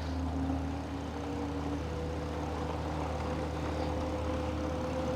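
Electric bike riding over loose sand: a steady low rumble of tyres and wind, with a faint steady motor whine that moves up in pitch about a second in.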